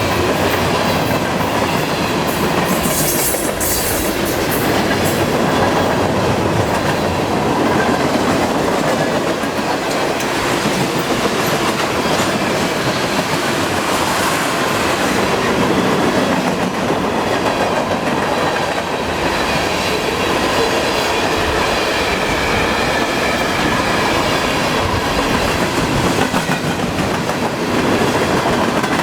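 Freight cars of a long CN train rolling past at around 40 mph: a loud, steady rumble of steel wheels on rail.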